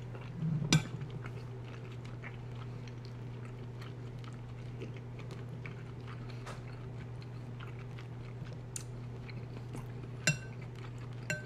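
Quiet chewing and mouth sounds of someone eating a soft stew. A spoon clinks against the bowl about a second in and twice near the end, the last clinks ringing briefly. A steady low hum runs underneath.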